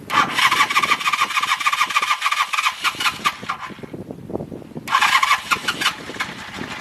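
Electric starter cranking the 1984 Honda CB450SC's parallel-twin engine on its first start attempt after a carburettor clean, in two bursts: about three and a half seconds, a short break with uneven low pulses, then about two and a half seconds more.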